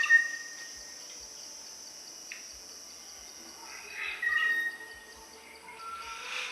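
Malayan black magpie calling: a clear held whistled note at the start and another about four seconds in, with a lower note near the end, over a steady high hiss.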